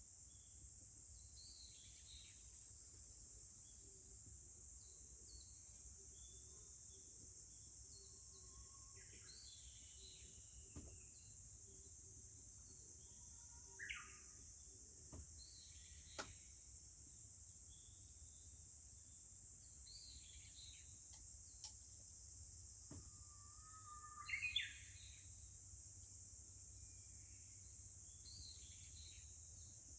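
A steady, faint, high-pitched drone of cicadas with scattered bird chirps and calls, the loudest call near the end. A few faint, sharp clicks.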